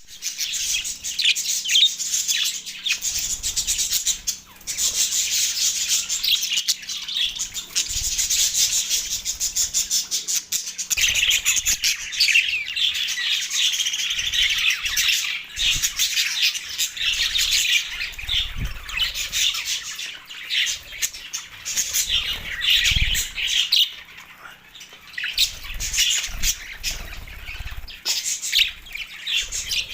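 Budgerigars chattering and chirping in a dense, continuous warble, with occasional low bumps.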